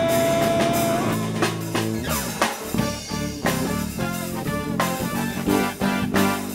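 Live band music: a long held note ends about a second in, then the drum kit and guitar carry on through an instrumental passage with a steady beat.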